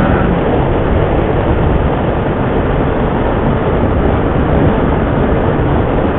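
Motorcycle being ridden at road speed: loud, steady wind rush over the microphone, with the engine running underneath and its rising pitch fading out just after the start.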